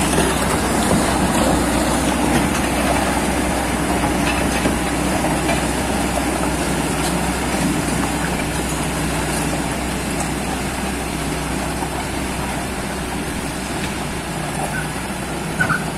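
Kobelco excavator's diesel engine running steadily while the machine tracks in reverse.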